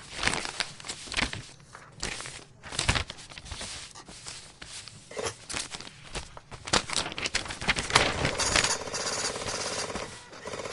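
Computer keyboard typing: fast, irregular runs of key clicks, turning into a denser, continuous clatter about eight seconds in.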